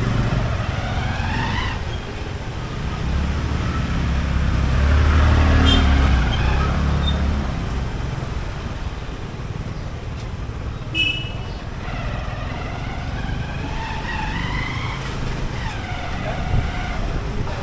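Motorcycle engine and road traffic noise while riding, the rumble swelling to its loudest about a third of the way in, with engine pitch rising and falling. A short high beep sounds about two-thirds through.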